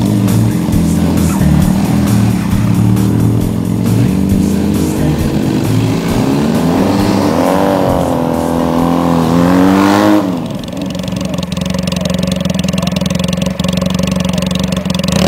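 Motorcycle engine revving, its pitch rising and falling several times around the middle, over background music.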